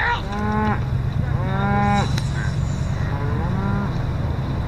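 Cattle in a drive mooing: three drawn-out moos, one after another, over a steady low rumble.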